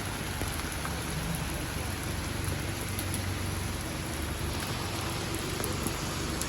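Steady rain falling on the street, an even hiss with scattered drops ticking.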